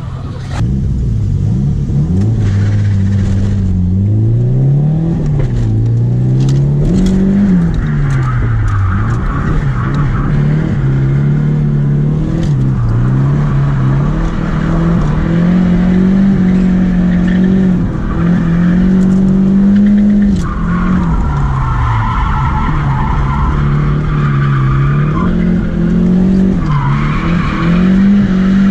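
Nissan S13's stock SR20DET turbocharged four-cylinder engine, heard from inside the cabin, revving up and down over and over while the car drifts. The tyres squeal in stretches, most strongly from about twenty seconds in.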